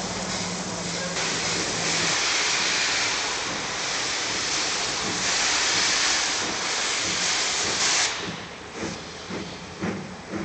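Pm36-2 steam locomotive letting off a loud, steady hiss of steam that cuts off suddenly about eight seconds in, then starting a rhythm of exhaust chuffs at about two a second.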